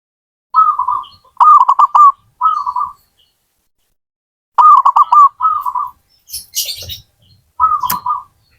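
A zebra dove (perkutut) cooing. It gives three groups of phrases, each a quick run of short coos ending in a rolling, trilled note. A short hiss and a sharp click come just before and during the last phrase.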